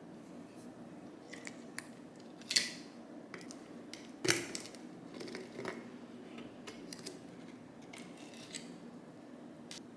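A scattered series of light clicks and snips of hand work, with two sharper ones about two and a half and four seconds in, over a faint steady hum.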